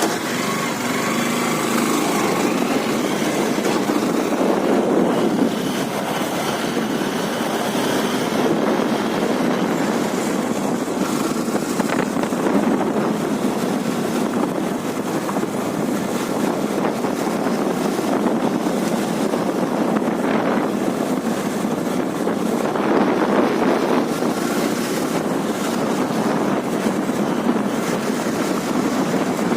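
Karizma R motorcycle on the move: a steady rush of wind over the microphone with the engine running underneath.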